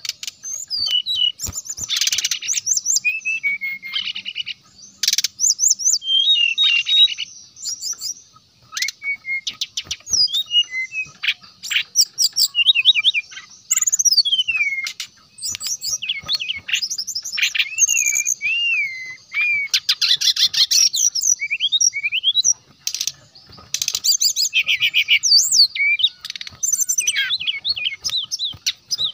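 Brown-chested jungle flycatcher singing a loud, varied song of rapid trills, sharp chirps and slurred whistles that glide up and down, with brief pauses between phrases.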